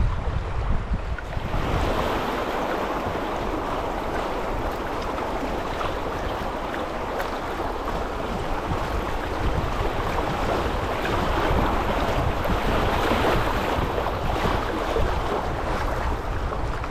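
Rushing river water, with wind buffeting the microphone in a low rumble; the water grows louder about a second and a half in.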